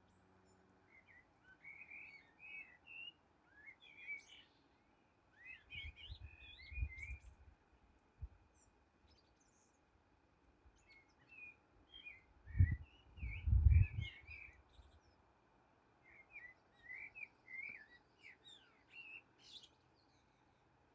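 Small songbirds chirping and twittering in short quick bursts, with pauses in between. Twice a low rumble rises under the birdsong, the second, about two-thirds of the way in, the loudest sound.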